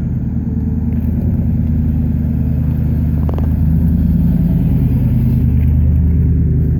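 A car engine running close by with a deep, steady low rumble that grows louder about three and a half seconds in. A single faint click comes a little after three seconds.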